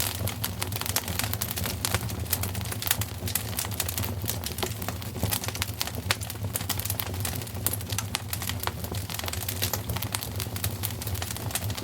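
Wood fire in a fireplace crackling, with dense irregular snaps and pops over a steady low rumble.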